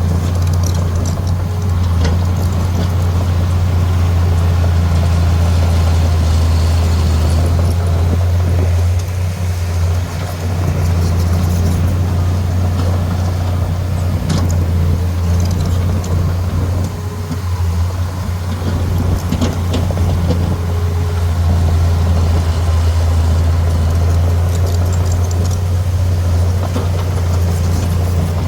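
Heavy diesel earthmoving machine running steadily with a deep, constant drone, with a few short metallic knocks and rattles scattered through it.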